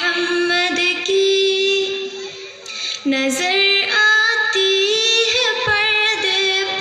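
A high voice singing a devotional naat melody in long, ornamented held notes that glide between pitches, with a short dip in loudness about two to three seconds in.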